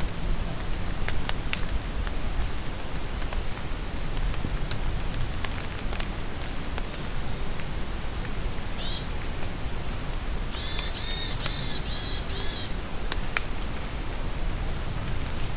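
Steady rain in a forest, with scattered drops ticking, and birds calling: short high chirps throughout, and about two-thirds of the way in a songbird sings a loud run of about six quick descending notes.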